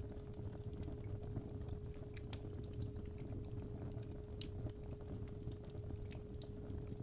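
A steady 417 Hz tone runs under fireplace fire, which crackles with irregular small pops over a low rumble.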